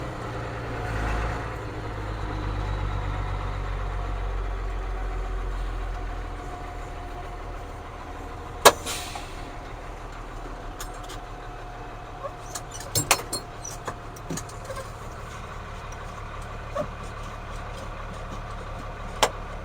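Ford CF7000's 6.6 L diesel running under way, dropping back about six seconds in to a quieter steady run. About nine seconds in there is a sharp click followed by a short hiss, and further scattered clicks and knocks come near the middle and near the end.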